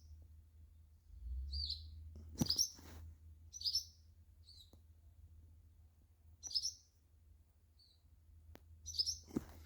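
A young bird chirping: about seven short, high chirps with irregular gaps between them.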